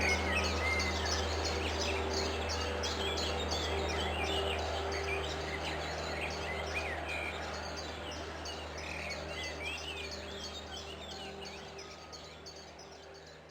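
Wild rose-ringed (Indian ringneck) parakeets chirping and calling, many short calls in quick succession, over a steady low hum. The sound fades out gradually over the last several seconds.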